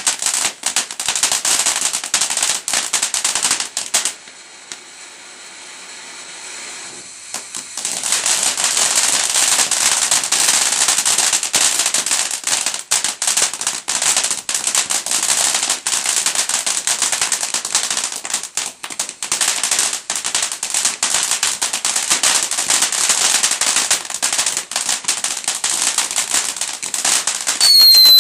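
Firework cake going off: a dense, rapid crackle of small firecracker-like reports. About four seconds in the crackling drops away for a lull of roughly three seconds, then resumes just as dense.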